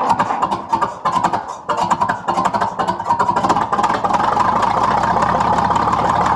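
Minneapolis Moline HEB 605-cubic-inch engine catching on a cold start in 9-degree weather. It stumbles briefly about a second in, then runs steadily and settles toward idle, with thick cold oil slow to build pressure.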